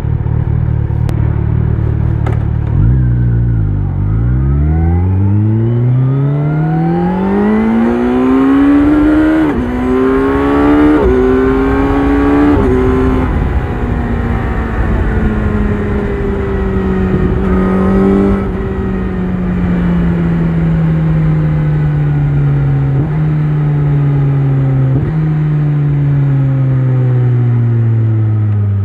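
Kawasaki Z900 inline-four with an Akrapovic exhaust pulling away and accelerating hard, the revs climbing through three quick upshifts. It then eases off and slows, the revs falling steadily with three downshifts in the second half.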